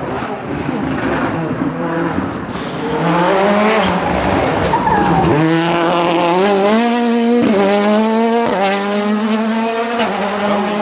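2019 World Rally Car's 1.6-litre turbocharged four-cylinder engine accelerating hard past, its pitch climbing through the gears with quick upshifts about seven and a half and eight and a half seconds in, then held at high revs.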